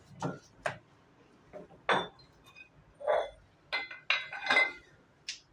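Irregular metal clinks and knocks with short rings: small dumbbell weight plates being handled and shifted on their handles as the weight is changed. The densest cluster of clinks comes about four seconds in.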